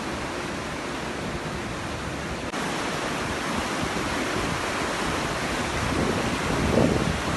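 Steady rushing of floodwater in a flowing wadi. The noise steps up slightly about two and a half seconds in, and a few low wind buffets hit the microphone near the end.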